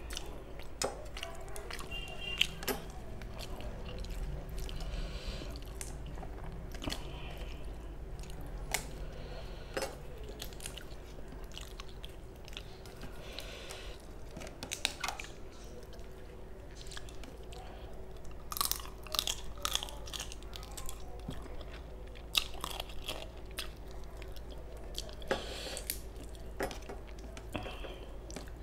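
Close-miked chewing of rice and curry eaten by hand, with wet mouth smacks and scattered crunches and clicks at an uneven pace, and fingers squishing rice against a steel plate.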